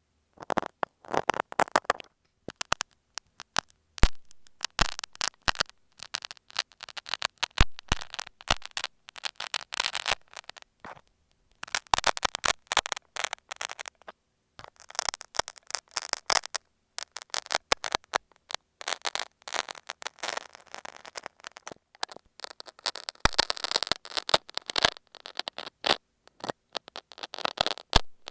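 Utility knife working over masking tape on an earphone microphone, very close: crackly scraping and scratching in irregular bursts with short pauses.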